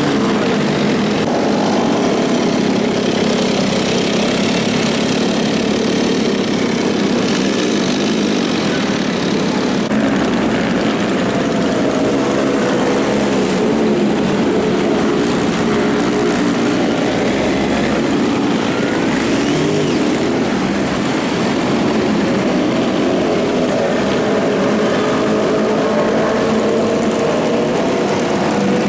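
Motorcycle engines running and revving amid continuous road traffic, a steady, loud mix with engine pitches that rise and fall slowly.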